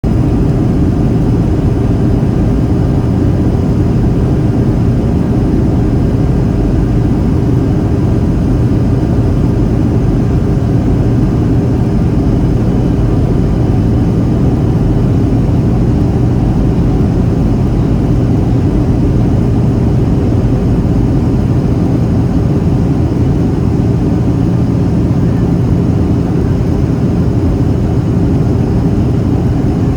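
Steady in-flight cabin noise inside a Boeing 737-800: a low, even rush of airflow and CFM56 engine drone, with faint steady whine tones above it.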